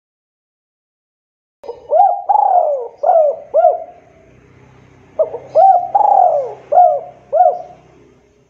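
Spotted dove (tekukur) cooing in two phrases of about five coos each. The first phrase starts a little under two seconds in and the second about five seconds in.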